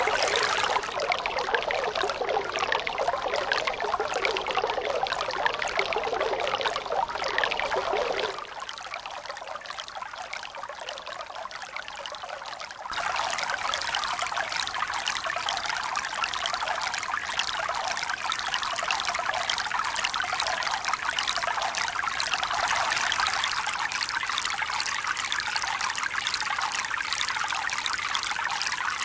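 Steady rush of running water, pouring and trickling. About 8 seconds in it abruptly turns quieter, and about 13 seconds in it abruptly returns louder, like cuts between recordings.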